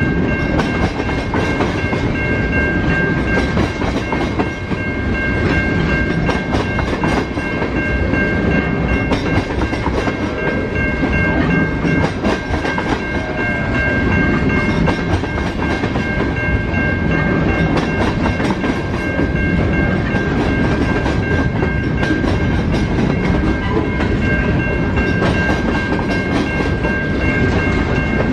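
A train rolling past close by, its wheels running over the rails with a clickety-clack, for the whole stretch. Steady high ringing tones sound over it, weaker in the middle and stronger again near the end.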